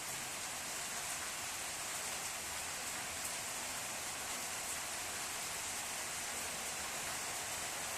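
Steady rain falling, an even hiss with faint pattering of drops.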